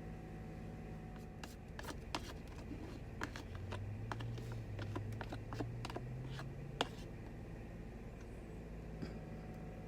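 Cooking utensils and cookware clicking, tapping and scraping at a pan in irregular light knocks, over a steady low hum.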